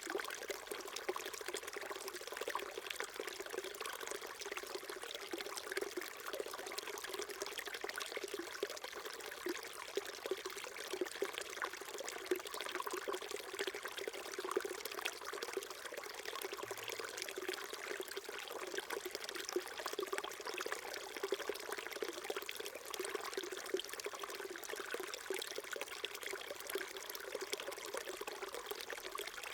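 Small mountain stream trickling and burbling over rocks, a steady flowing-water sound.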